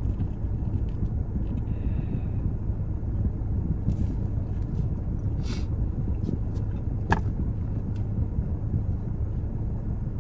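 Steady low rumble of a car's running engine heard inside the cabin, with a few short clicks of chewing as Raising Cane's bread dipped in sauce is eaten.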